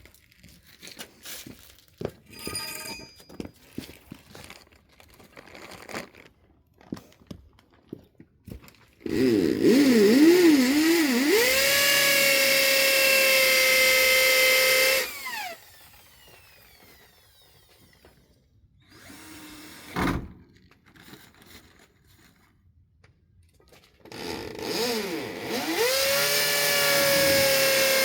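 Electric power tool motor run twice under load. Each time its pitch wavers as it starts, then settles to a steady whine. The first run lasts about six seconds and winds down with a falling pitch. A single sharp knock comes between the runs, and the second run starts near the end.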